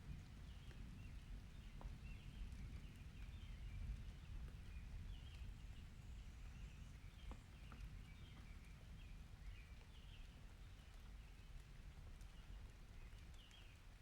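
Faint outdoor ambience: a steady low rumble with scattered small, high chirps and squeaks coming irregularly throughout.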